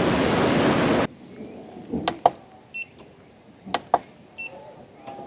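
Rushing river water cuts off suddenly about a second in. Then come several sharp clicks and knocks of handling, and twice a short high electronic beep from a device.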